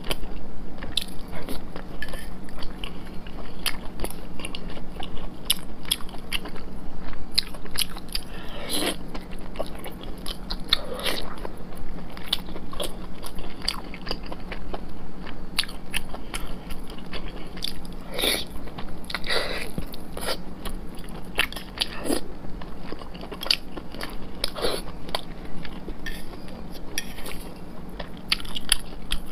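Close-miked eating sounds of a person chewing soft, fatty red-braised pork belly: a steady run of small wet mouth clicks and lip smacks, with a few louder wet smacks spread through.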